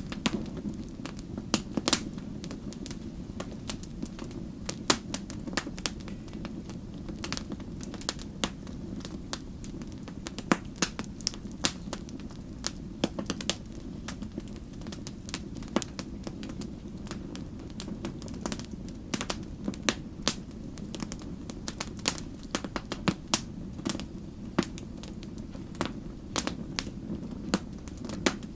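Wood campfire burning, with irregular sharp crackles and pops, several a second, over a steady low rumble of flame.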